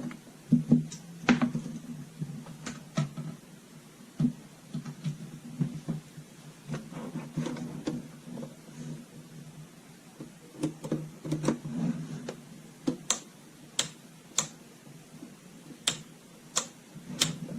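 Irregular clicks and knocks of plastic parts and a power cord being handled on a humidifier, over a steady low hum.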